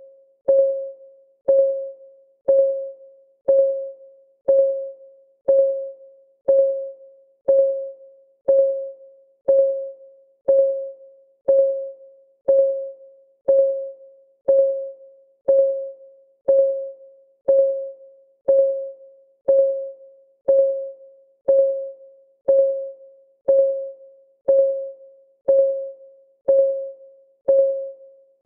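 Countdown timer's clock-ticking sound: a steady tick about once a second, each a short pitched tock that rings briefly and dies away before the next.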